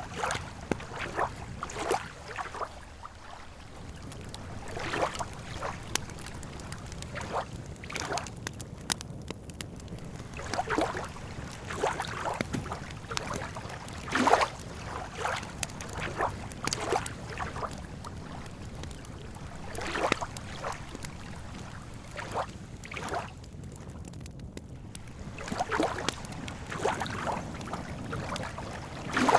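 Lake water lapping and sloshing at the edge in irregular short slaps and gurgles, over a steady low rumble.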